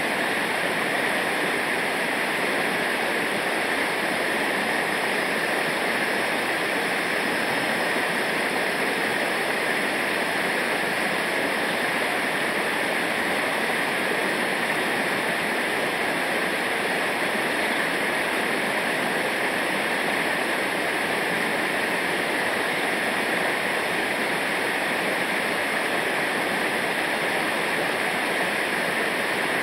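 Rushing river water from rapids or a waterfall: a steady, even roar that does not change.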